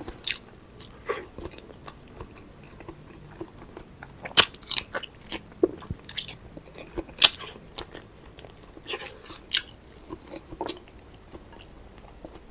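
Close-up eating sounds: irregular chewing with crunchy bites, the loudest sharp crunches about four and seven seconds in.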